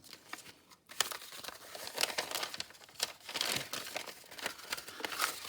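A sheet of paper crinkling and rustling as it is handled, with many small irregular crackles after about a second.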